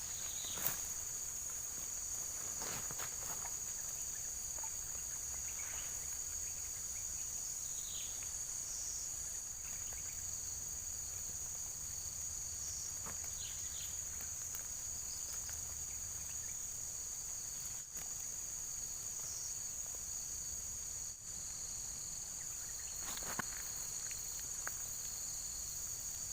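Steady high-pitched chorus of insects, with a few faint knocks and rustles now and then.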